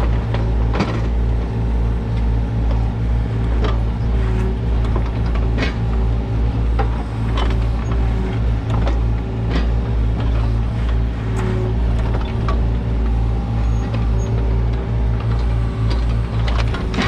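Kubota U55-4 mini excavator's diesel engine running steadily under work, with scattered metallic clanks and knocks throughout.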